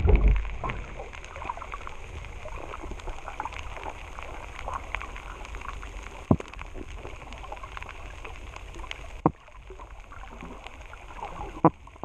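Underwater sound picked up through a GoPro housing: a constant crackling of small clicks, with a few sharp loud knocks about six, nine and nearly twelve seconds in.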